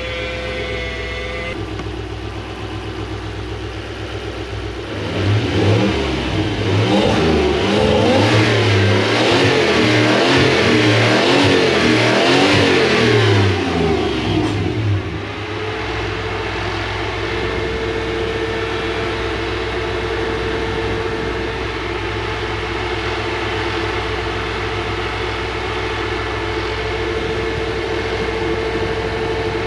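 Toyota 1UZ-FE V8 running just after its first start following the swap. It is revved up and down several times from about five seconds in until about fifteen seconds, then settles back to a steady idle.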